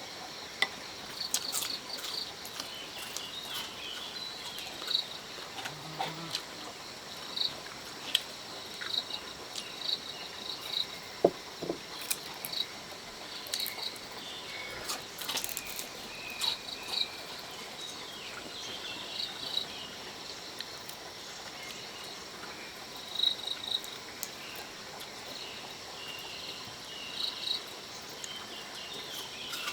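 Insects chirping in short, irregular bursts, with scattered sharp clicks and taps.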